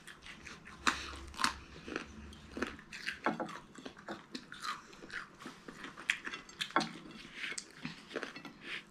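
Chewing and biting of crunchy food, with short crisp crunches at irregular moments.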